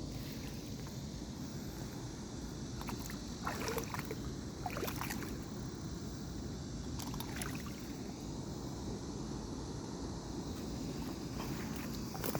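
River water sloshing and splashing in short bursts every few seconds, over a steady low rumble.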